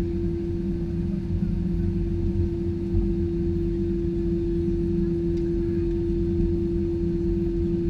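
Cabin noise of an Airbus A320-214 with CFM56 engines: a steady engine drone with one constant hum over a low rumble.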